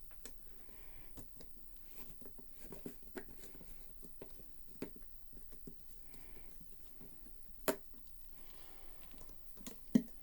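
Small piano parts and screws being handled during disassembly: scattered light clicks and taps, with two sharper knocks, one near the end.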